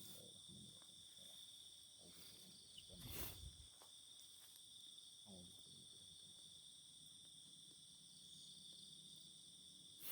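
Steady night chorus of crickets in the fields, a continuous high trill on several pitches. A single dull knock comes about three seconds in.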